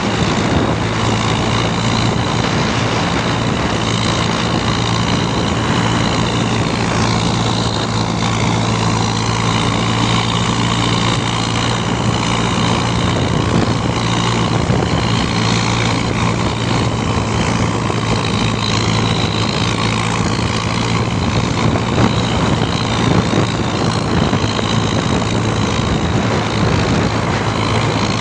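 Tractor engine running steadily at a constant speed, with a low, even hum.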